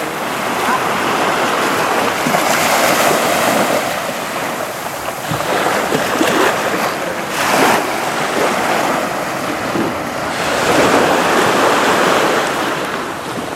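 Wind buffeting the microphone over rushing water, swelling and easing every few seconds, as on a speedboat crossing open sea.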